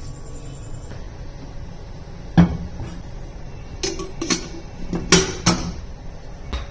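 Kitchenware knocking and clinking: about five sharp knocks with a short ring, the loudest about two and a half seconds in, the rest clustered in the last third, over a low steady hum.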